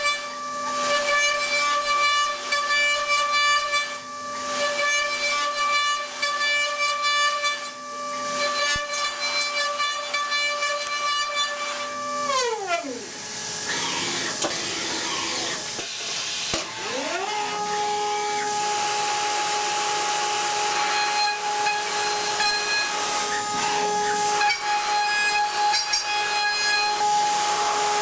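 DATRON M8Cube CNC mill's 3 kW high-frequency spindle whining steadily over the hiss of high-speed milling in aluminium. About halfway through the whine falls away as the spindle slows, a few seconds of hiss follow, then the whine rises again and settles at a lower pitch as the spindle runs back up to a lower speed.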